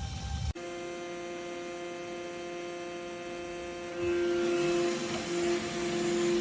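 Robot vacuum running: a steady motor hum and whine that grows louder and rougher about four seconds in.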